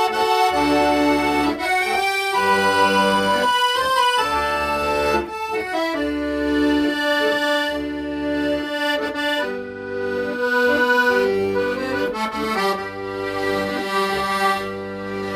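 Solo accordion playing a slow, sustained ballad melody in the right hand over a steady left-hand bass-and-chord accompaniment.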